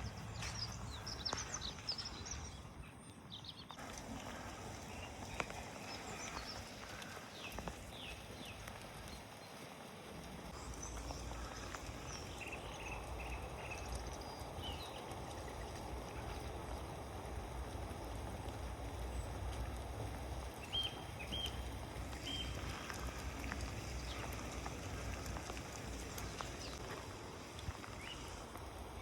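Steady hiss of rain falling outdoors, with short bird chirps scattered throughout.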